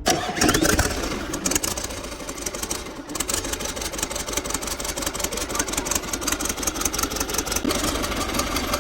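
A Caterpillar wheel loader's four-cylinder diesel engine is cranked and catches at once, loud in the first couple of seconds. It then settles into steady running with a rapid, even clatter.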